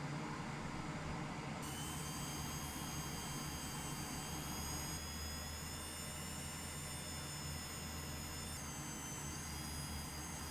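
A small electric appliance starts a steady high-pitched whine of several tones about a second and a half in, over a low hum. Its pitch shifts slightly twice.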